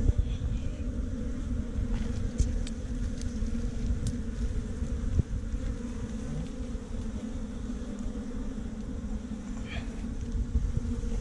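A swarm of honey bees buzzing steadily around an opened nest, a constant low hum, with a few faint clicks.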